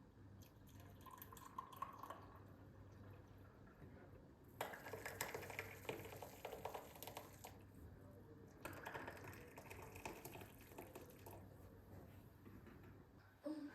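Faint flowing liquid, in two stretches of about three seconds each, starting about four and a half and about nine seconds in.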